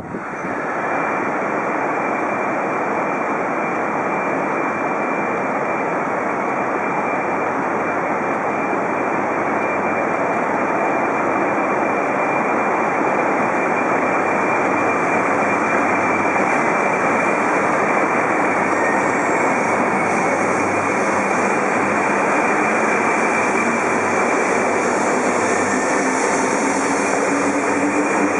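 Shinkansen train running along the platform: a loud, steady rush of wheel, air and running noise that swells slightly, with a faint rising motor whine near the end.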